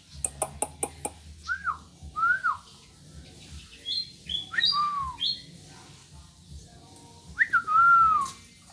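Chinese francolin (đa đa) calling: a run of short arched whistled notes in three groups, the last one longer. A few sharp clicks come in the first second.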